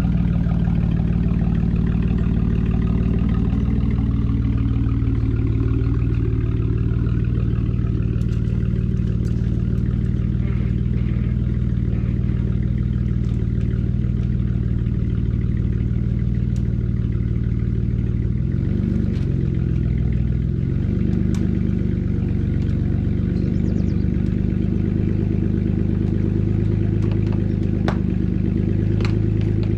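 Jeep engine running steadily while pulling a tree out by its roots, the engine note shifting briefly about two-thirds of the way through, with a few light clicks and clatter.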